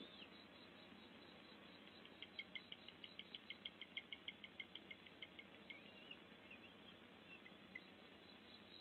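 Faint forest bird calls: a rapid run of short, high pips, about six a second for some three seconds, with a few slurred whistled notes before and after, over a steady hiss.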